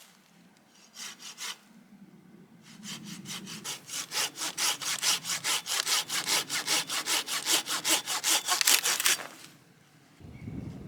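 Hand saw cutting wood: a few short strokes about a second in, then a steady run of quick, even back-and-forth strokes from about three seconds in, stopping near the end.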